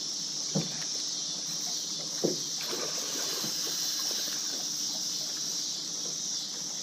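Steady high chorus of crickets, with two short knocks, about half a second and just over two seconds in, and a few fainter ticks.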